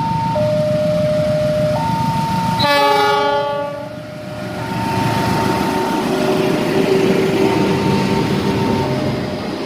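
A two-tone level-crossing alarm alternating between a low and a high tone. About three seconds in, a diesel locomotive sounds one horn blast lasting about a second. Then the rumble of the Argo Wilis train passing builds up under the continuing alarm.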